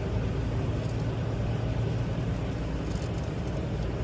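Tractor-trailer's engine and tyre noise heard from inside the cab while cruising on the highway: a steady low drone.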